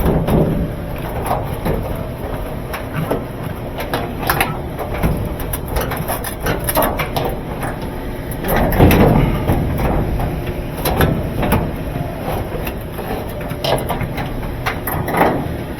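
Irregular knocks, clicks and clatter of hands-on repair work on a top-loading washing machine, over a steady low rumble, with a busier, louder stretch about halfway through.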